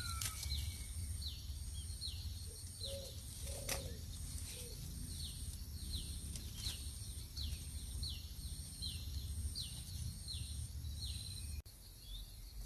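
A small bird's short falling chirps, repeated evenly about every half second, over a steady pulsing high trill and a low rumble; it all cuts off suddenly near the end.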